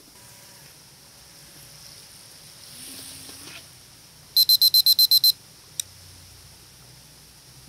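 A rapid run of about eight short, high-pitched electronic beeps, loud, a little after four seconds in, followed by a single click; otherwise a faint steady hiss.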